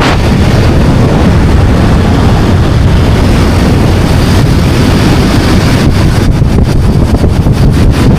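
Loud wind rushing over the microphone of a moving motorcycle, over the bike's engine and road noise, with a rapid flutter starting about six seconds in.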